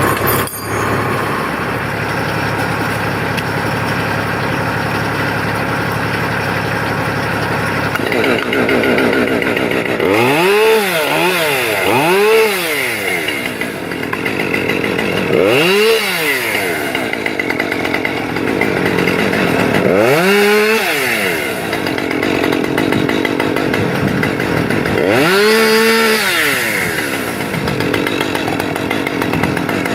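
Chainsaw running, its pitch rising and falling about six times as it is revved. A steady engine hum runs under it, alone for the first several seconds.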